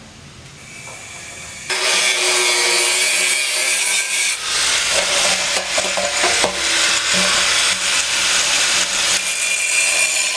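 A power tool starting up about two seconds in and then working steadily on a material with a loud, even rasping noise.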